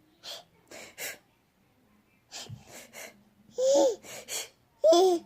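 Baby huffing out several quick breathy gasps, then giving short high-pitched squeals in the second half.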